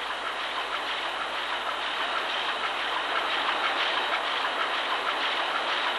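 Large two-stroke marine diesel engine running: a steady, dense mechanical clatter with fine rapid ticking, heard in the engine room.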